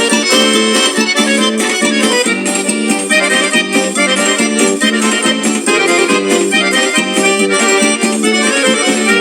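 Instrumental break of a forró song, an accordion carrying the melody over a steady beat.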